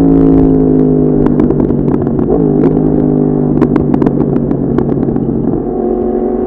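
Yamaha MT-10's crossplane inline-four through an Akrapovic exhaust, running at a steady engine speed while riding, with scattered sharp clicks. Near the end the revs and level drop as the throttle is rolled off.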